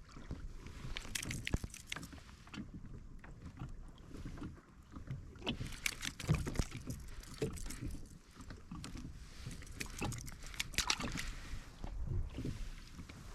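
Handling noise on a fishing kayak: scattered clicks, taps and knocks of gear against the hull over water and light wind on the microphone.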